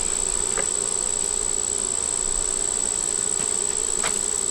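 Honey bees buzzing as a steady hum around an open hive, with a few faint clicks. The colony is defensive and upset because its queen is out of the box.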